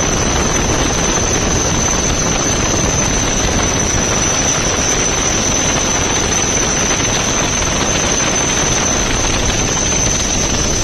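Helicopter running steadily: a loud, unbroken rush of rotor and engine noise with a constant high whine.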